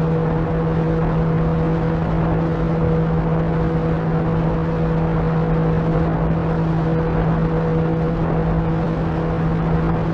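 Electric motor and propeller of an FMS 1500 mm Cessna 182 RC model plane running at steady cruise throttle, a constant hum with a few fixed tones, over air rushing past the onboard microphone.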